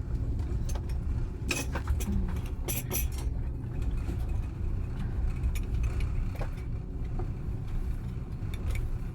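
Steady low rumble of a passenger train running on the rails, heard from inside the carriage. A few light clinks and rattles come between about one and a half and three seconds in.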